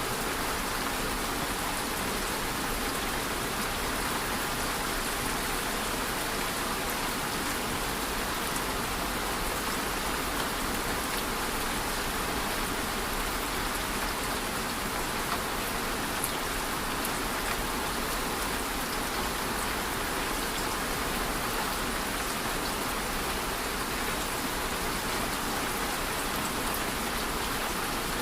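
Steady rain falling, an even hiss of rain on a surface with scattered individual drop ticks.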